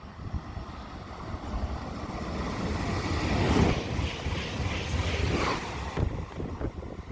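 Train passing close by: a rushing rumble that swells to a peak around the middle and then eases off, with wind buffeting the microphone.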